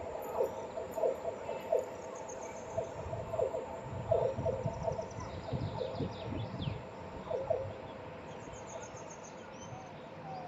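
Birds calling: short low hooting notes repeated every half second or so, with high chirps above them, over a steady hum.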